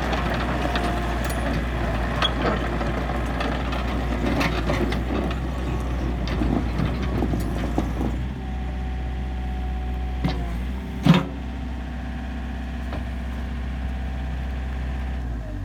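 Komatsu PC50UU-2 mini excavator's diesel engine running, with busy clattering and knocking for the first half. After that it settles into steady running, with one sharp loud knock about eleven seconds in.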